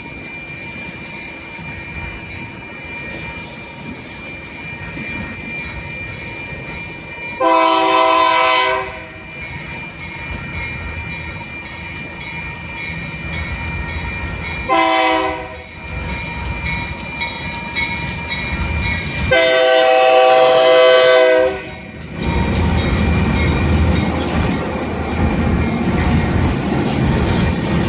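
Diesel freight locomotive's air horn blowing three blasts, long, short, long, over the rumble of the approaching train. After the last blast the train's rumble and wheel clatter grow loud as it passes.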